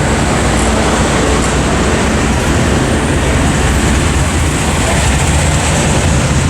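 Steady vehicle noise: a low engine rumble under a dense, even wash of road noise.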